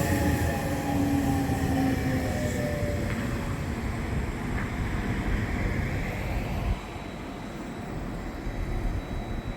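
Nishitetsu electric train passing and moving away, its motor whine falling in pitch and fading within the first couple of seconds, leaving a rumble on the rails that slowly dies down.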